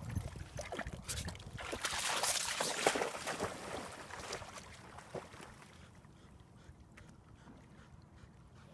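Water splashing and sloshing as a Labrador puppy moves through it, loudest in the first few seconds and dying away after about five seconds.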